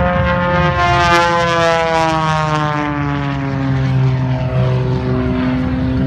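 Propeller-driven aerobatic plane flying past. Its engine and propeller note falls steadily in pitch over several seconds as it goes by.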